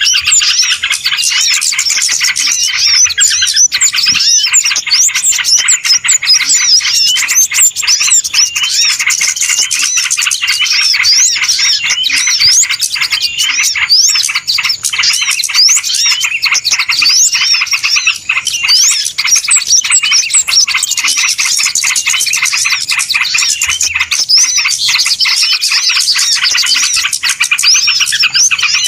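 A dense, noisy chorus of many small birds chirping and twittering without pause: a bird-lure recording of a flock's commotion, used to draw small birds in.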